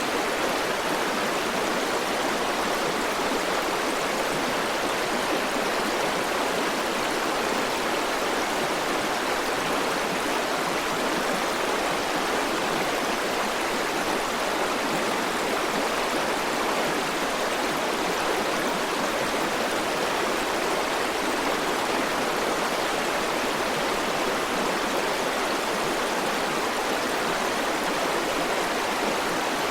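A river or stream flowing, a steady even rush of water with no breaks or changes.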